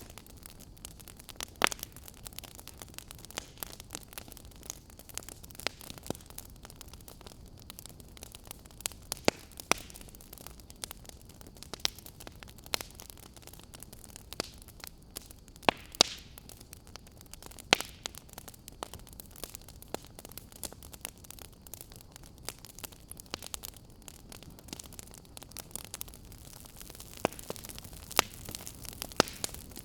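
Wood fire crackling in a fireplace: irregular sharp pops and snaps, a few much louder than the rest, over a steady soft hiss.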